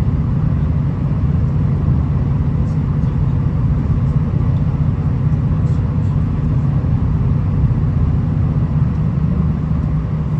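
V/Line VLocity diesel multiple unit running along the line: a steady low rumble of engine and wheels on rail with a faint steady hum above it.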